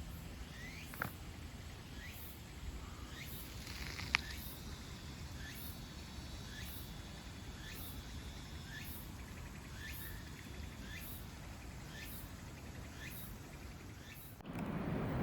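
Short rising chirps repeated evenly, about two a second, over faint background hiss, with a couple of sharp clicks in the first few seconds. The sound cuts to a louder, noisier background just before the end.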